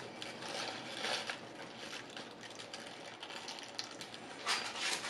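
Close-up chewing of a big mouthful of Double Jack burger, soft wet mouth and crackling sounds. About four and a half seconds in comes a louder crinkle as the paper-wrapped burger is bitten again.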